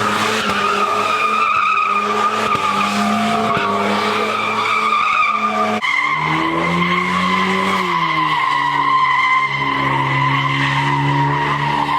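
Car engine held at high revs with the tyres squealing steadily in a burnout. About six seconds in, the engine note drops suddenly, swells up and down briefly, then holds at a lower pitch under the continuing squeal.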